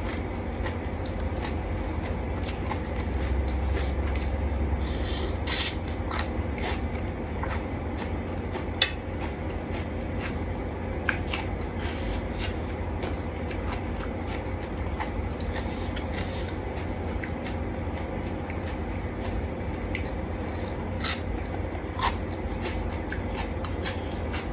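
Close-up eating sounds: wet chewing and biting, with scattered clicks and scrapes of a spoon or fork against a dish, over a steady low hum.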